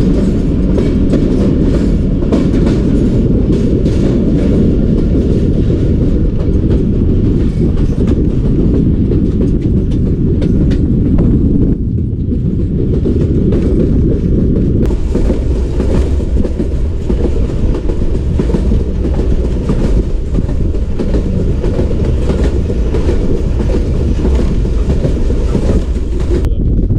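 Passenger train coaches running on the rails, heard close up from an open coach window: a steady heavy rumble with the wheels clacking over the rail joints. The sound thins a little about twelve seconds in.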